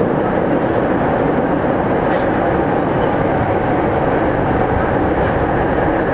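Meitetsu 300 series EMU set 317F running at steady speed, heard from inside the car: an even rumble of wheels on rail that does not change.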